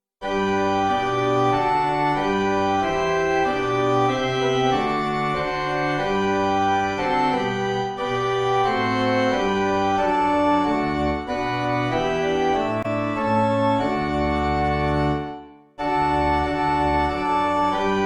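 Organ playing slow sustained chords in a hymn-like progression, breaking off briefly near the end between phrases before starting again.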